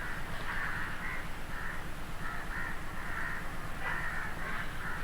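Crows cawing steadily in the background, with many short overlapping caws.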